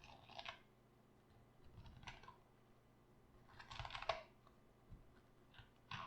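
Raw cabbage crunching in several short, crisp, irregular bursts, the longest about four seconds in.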